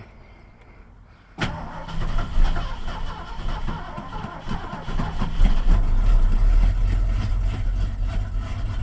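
1980 Ford F100's 302 V8 cold-starting: the starter kicks in suddenly about a second and a half in, and the engine turns over, catches and settles into a rough, steady low running by about halfway. The start is slow because the engine is flooded.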